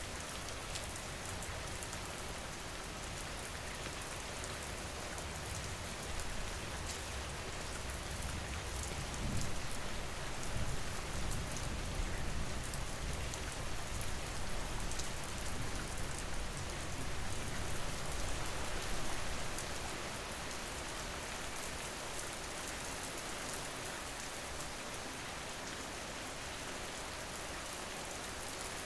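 Steady rain falling on a surface, an even hiss of drops. A low rumble swells beneath it from about a fifth of the way in and fades out about two-thirds through.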